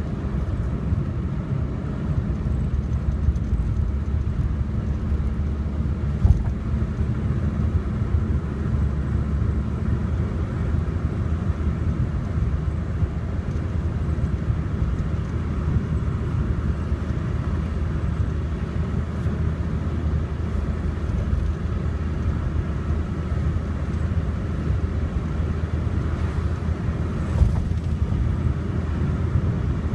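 Car driving on a road: a steady low rumble of engine and tyre noise, with two short knocks, one about six seconds in and one near the end.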